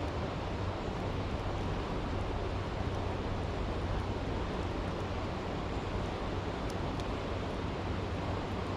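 Stream rushing steadily, with a few faint campfire crackles about seven seconds in.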